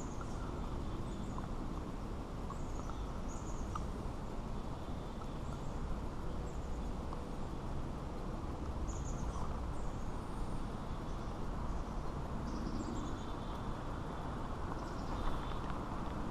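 Steady outdoor background noise with scattered faint, high bird chirps.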